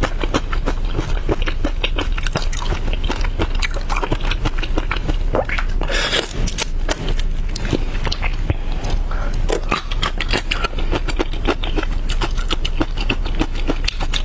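Close-miked biting and chewing of shrimp, a dense run of small clicks and crackles, with the crackle of shrimp shell being peeled by hand.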